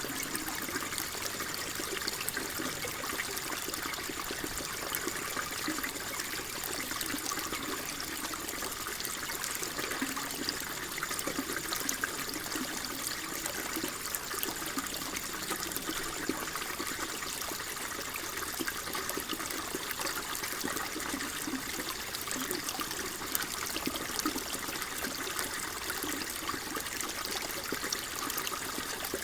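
Water flowing steadily in a soft, continuous trickle, full of small splashes and gurgles.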